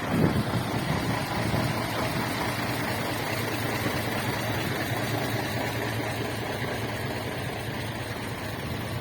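1977 Scania 140 truck's V8 diesel engine idling steadily.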